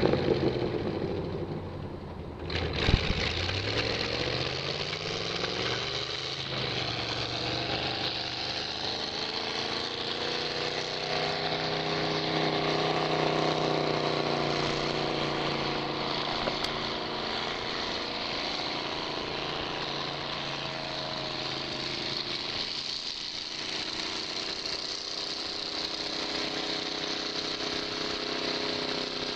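1945 Linn tractor's Chevrolet 350 small-block V8 running. Its pitch drops over the first couple of seconds, then a sudden loud knock comes about three seconds in. After that the engine speed climbs and holds, with a slow rise and fall in pitch around the middle.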